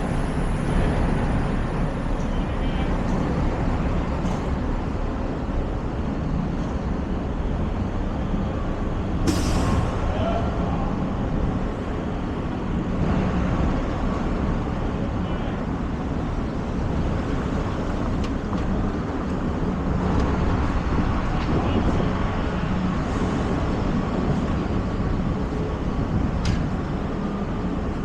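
Busy city street ambience: steady traffic rumble with passing vehicles and the voices of passers-by. A short, sharp hiss breaks through about nine seconds in.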